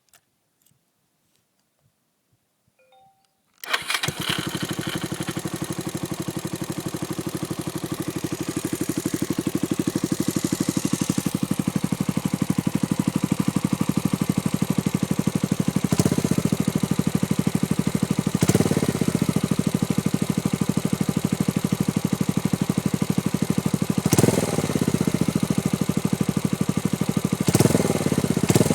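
Suzuki Grasstracker Big Boy's single-cylinder engine, breathing through a SuperTrapp aftermarket muffler, starting abruptly after a few faint clicks and settling into a steady idle with fast even exhaust pulses. The throttle is blipped briefly four times, twice in the middle and twice near the end.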